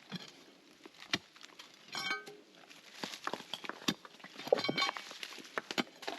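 Scattered knocks and clinks of stones being worked loose and shifted by hand from a mortared dry-stone pile, with two brief higher-pitched sounds, about two seconds in and again near five seconds.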